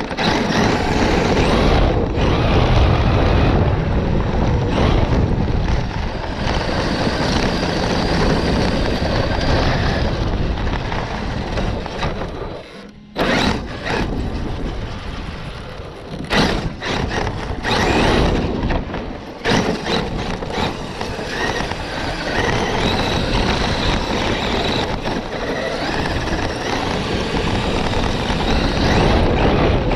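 Electric Traxxas RC trucks being driven, with the high whine of their electric motors rising and falling over loud tyre and ground noise. The sound dips sharply about 13 seconds in, then picks up again.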